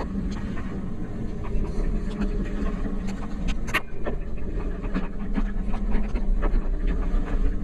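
Steady low rumble of a vehicle moving along, with scattered sharp ticks of light rain hitting the camera's rain cover, one louder tick near the middle.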